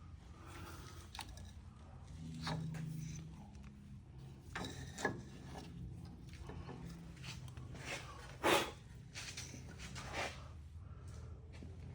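Scattered clicks, knocks and rubbing of tools and suspension parts being handled, over a steady low hum. The loudest knock comes about eight and a half seconds in.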